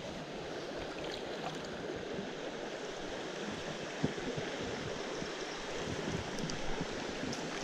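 Mountain stream water running steadily over rocks, with one brief knock about four seconds in.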